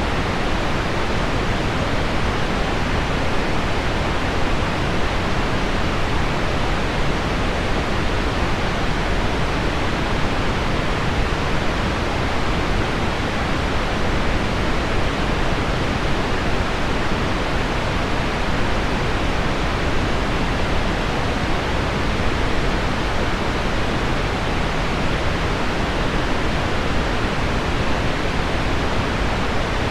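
Steady, even noise of heavy rain on window glass blended with low pink noise, with no single drops or other events standing out.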